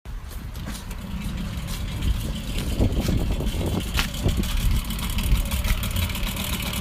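Babetta moped's small engine running steadily, with a few short clicks or knocks in the middle.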